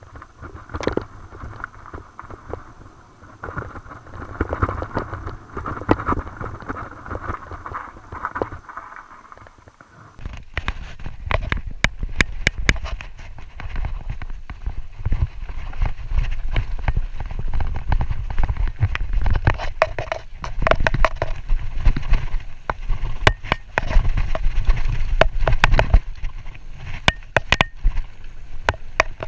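Mountain bike riding down a dirt trail, its tyres running over the ground and the bike rattling and clattering. About ten seconds in it gets much louder, with a heavy low rumble and rapid knocks over rough ground.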